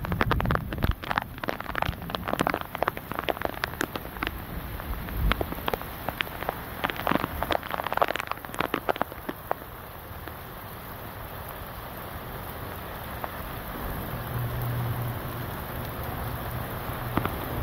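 Heavy downpour. For the first ten seconds or so, drops strike close by with many sharp taps; after that it settles into a steady, even rush of rain that slowly grows louder.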